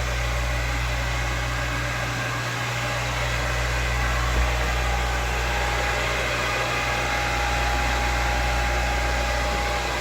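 Steady machinery hum in a motor yacht's engine room, with a low drone and a few faint whining tones over it. A light bump about four seconds in.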